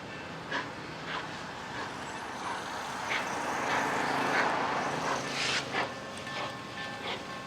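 A passenger train rolling by on jointed rail, its wheels clicking over the rail joints every half second or so. The running noise swells to its loudest around the middle and eases off toward the end.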